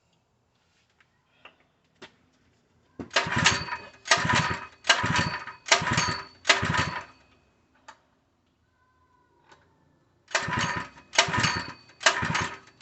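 Small 3 hp gasoline engine being cranked by its recoil pull-starter: a quick run of five pulls, a pause, then four more, each a short whirring burst, with the engine not catching on WD-40 sprayed in as starting fumes.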